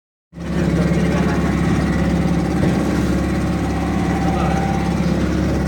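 Speedboat engine running steadily at an even pitch, cutting in sharply just after the start.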